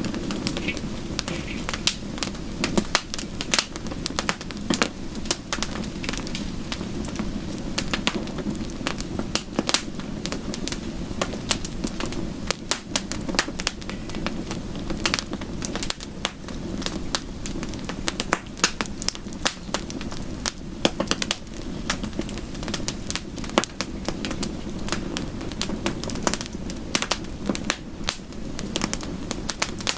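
Wood fire crackling, with frequent irregular sharp pops, over a steady soft rush of rain.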